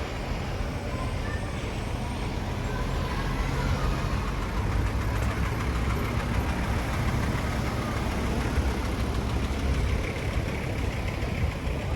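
A motor vehicle's engine running steadily close by, a low rumble over street noise that grows a little louder about three seconds in.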